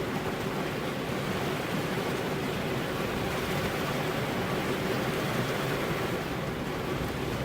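Steady rain falling on a car's glass, a dense even hiss without separate drops or thunder.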